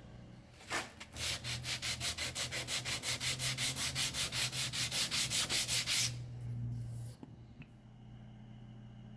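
Rapid back-and-forth abrasive rubbing by hand, about six even strokes a second, starting about a second in and stopping about six seconds in, in the finishing of a hand-forged 5160 leaf-spring chef's knife.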